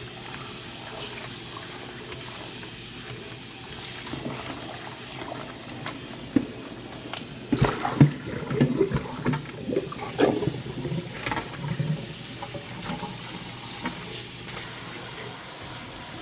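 Water running steadily from a tap, with a spell of knocking and handling clatter from about seven to twelve seconds in.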